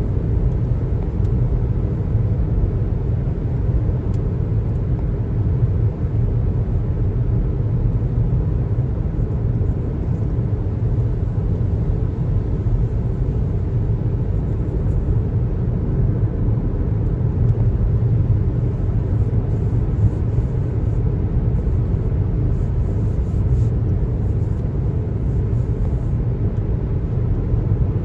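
Car driving on a highway: steady road and tyre noise with a low rumble.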